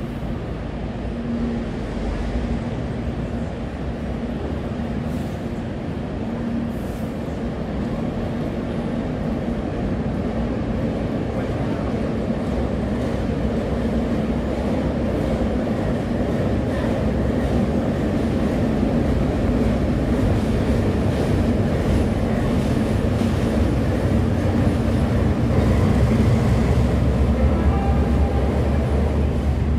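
Trains moving through a station: a steady low rumble and engine hum that grows louder over the last few seconds as a red CPTM diesel locomotive hauling a freight car comes into view.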